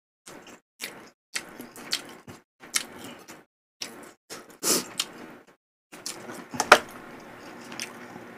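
Close-miked eating sounds: chewing and mouth smacks on fried pork in sweet-and-sour coating (guobaorou), with small clicks. They come in short bursts with silent gaps between, and the loudest come about two-thirds of the way through.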